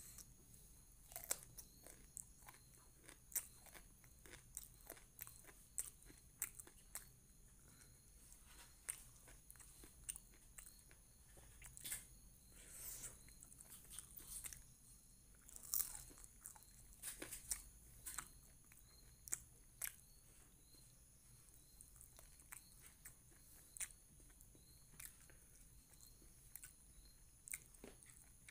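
A person chewing and biting into a spicy chicken lollipop with rice, close to the microphone: many short, sharp mouth clicks and bites at irregular intervals.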